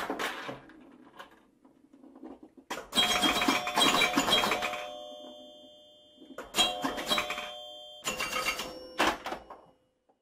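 Three bursts of clattering noise mixed with bell-like ringing chimes that hang on and fade. The first and longest starts about three seconds in, the next two come near the end, and a faint clatter comes right at the start.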